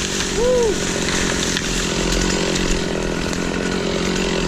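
Stihl chainsaw running steadily through the felling cut. About half a second in there is a brief squeal that rises and falls.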